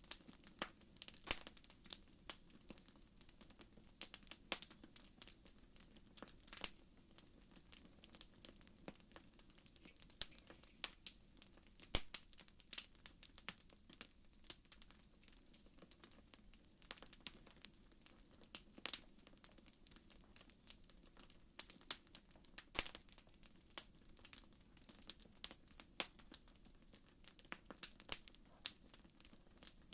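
Faint campfire crackling: irregular sharp pops and snaps of burning wood, several a second, over a low steady hiss.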